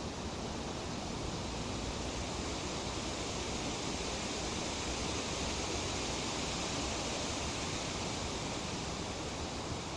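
Breeze rustling through tree leaves: a steady, even hiss that swells gently through the middle and eases off near the end.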